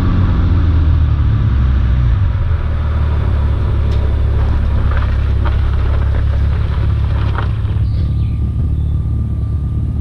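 BMW E46 330Ci's straight-six engine and exhaust running at low, steady revs with a deep drone. There are a few faint clicks in the middle, and the sound goes duller near the end.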